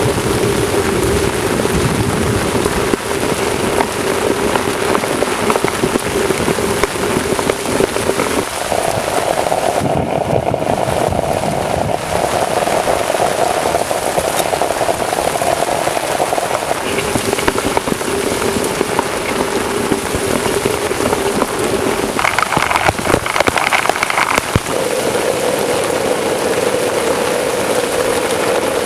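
Heavy rain falling steadily, with a faint steady tone underneath that shifts in pitch a few times.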